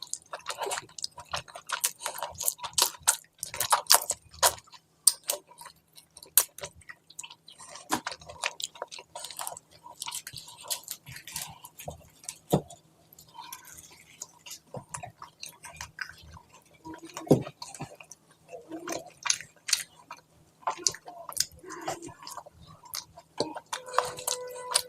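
Close-miked chewing and wet mouth sounds of a person eating curry and rice, with many irregular sharp clicks and smacks.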